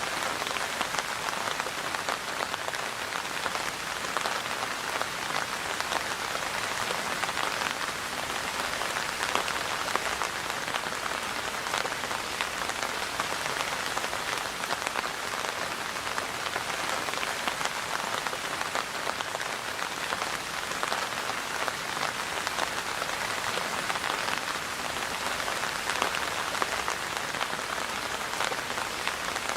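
Steady rain falling on a surface: an even hiss of countless small drop impacts, holding the same level throughout.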